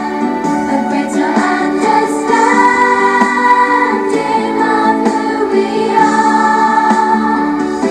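A song with group singing, in the style of a choir, over a musical accompaniment.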